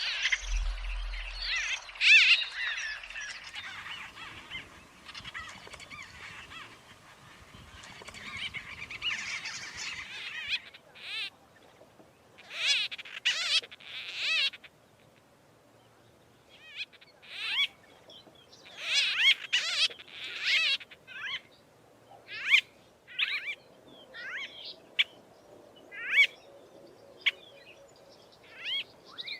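White-throated bee-eaters calling. A dense chorus of overlapping trilled calls fills the first ten seconds or so, then single short, rolling calls follow every second or two.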